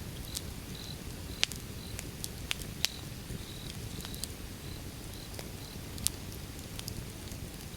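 Wood fire burning, with sharp crackling pops at irregular intervals over a steady low rumble of the flames.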